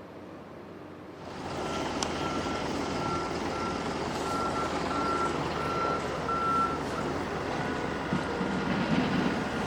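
A rail-replacement bus's engine running, with a high warning beep repeating about twice a second for some five seconds, like a reversing alarm.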